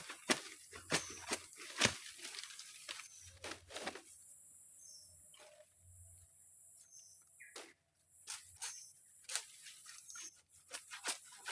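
Forest ambience: a steady high insect drone with a short high chirp repeating about every second and a half, over a scatter of sharp clicks and knocks that thin out midway.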